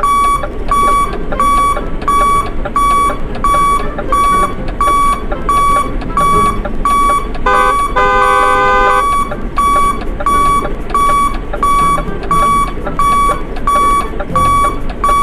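Electronic beeper of a battery-powered toy vehicle sounding a steady run of short high beeps, about two a second, over a rough motor-like noise, broken briefly near the middle by a different warbling electronic tone.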